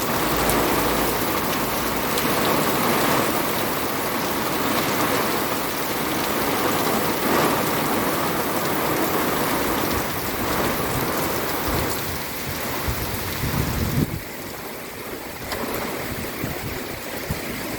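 Heavy thunderstorm rain pouring down in a steady dense hiss. Near the end it thins, and irregular low rumbling gusts come through.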